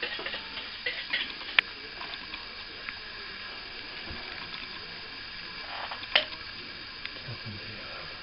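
Plastering hand work: light scraping and dabbing sounds with scattered small clicks, and two sharp clicks, one near the start and one about six seconds in.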